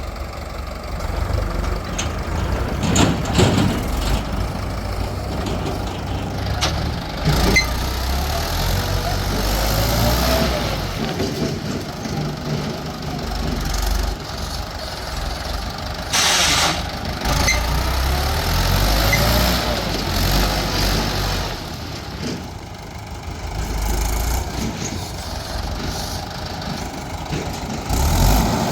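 Diesel engines of a backhoe loader and tractors running, with the engine pitch rising and falling several times as the machine works. There are a few sharp knocks, and a loud rush of hissing noise comes about 16 seconds in.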